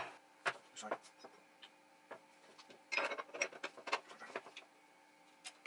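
Scattered small clicks and taps of plastic drum-pad parts being handled and fitted back together, with a quick run of them about three seconds in.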